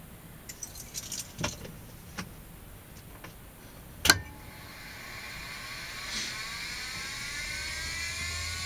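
Cockpit switches clicking, then a sharp click about four seconds in. After it, an electrical whine rises steadily in pitch over a low hum: the Cessna 152's electrically powered instruments spinning up as power comes on before engine start.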